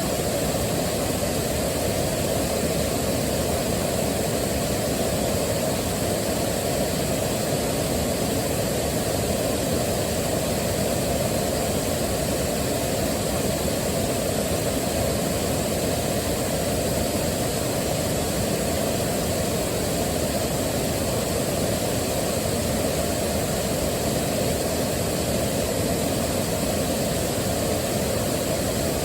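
Waterfall: rushing water making a steady, unbroken roar that is heaviest in the low range.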